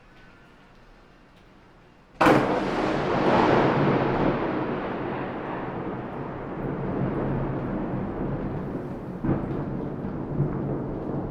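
Rain hissing faintly, then about two seconds in a sudden loud thunderclap cracks and rolls into a long rumble that slowly fades. A second, smaller crack comes near the end.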